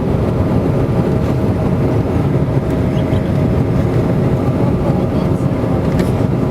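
Steady cabin drone of a Bombardier Q400 in flight, its two Pratt & Whitney PW150A turboprop engines and propellers giving a constant low rumble with a few steady humming tones.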